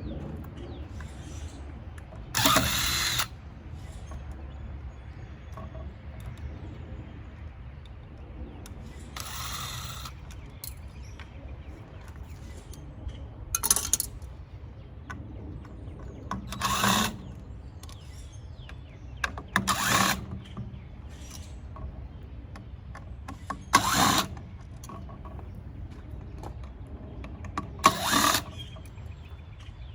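Power drill running in short bursts of under a second, about every three to four seconds, unscrewing fasteners while a tankless water heater is dismantled for scrap.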